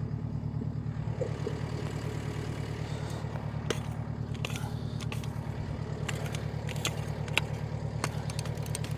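Volvo skid steer's diesel engine running steadily, with scattered crunches and scrapes of dirt and stones, typical of the tracked loader driving over freshly dumped fill.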